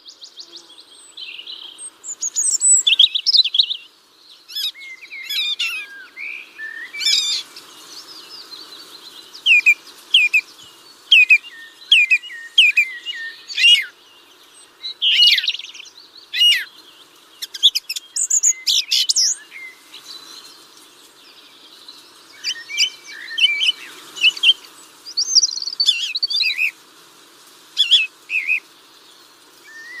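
Several birds chirping and singing, in short chirps and whistled phrases, some notes sliding down in pitch, scattered throughout.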